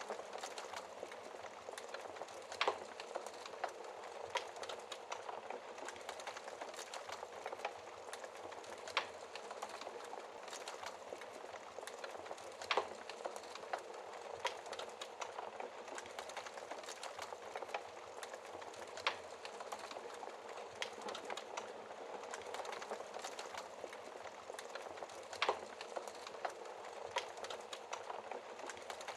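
Wood logs burning in a fireplace, crackling with sharp pops every few seconds over a steady hiss of rain.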